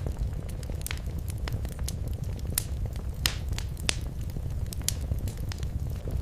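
Wood fire crackling in a fireplace: a steady low rumble of flames with irregular sharp pops and snaps, a few louder ones in the middle.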